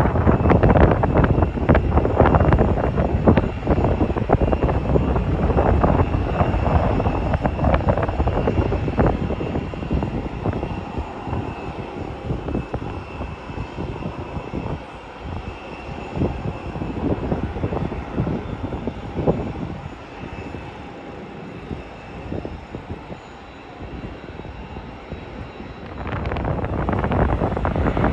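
Jet airliner engines, loud for the first several seconds and fading away over the next ten or so, with a faint steady high whine. The noise swells again near the end.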